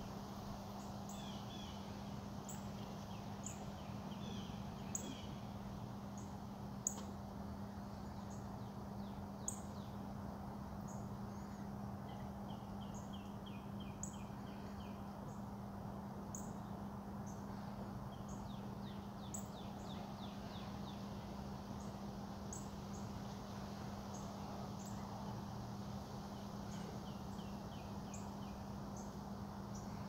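Wild songbirds calling: sharp high chirps every second or two and several rapid trilled series, over a steady low hum.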